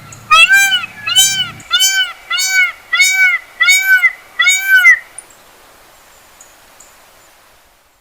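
Peacock calling: a quick series of about seven loud, nasal, wailing calls, each rising and falling in pitch, for the first five seconds.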